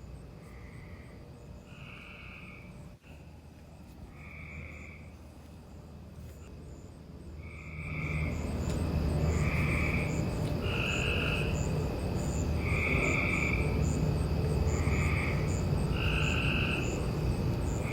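Nature ambience of short animal calls, frog-like, repeating about once a second at two alternating pitches, with faint high ticking over them. About eight seconds in, a low rumbling haze comes up and the whole sound grows louder.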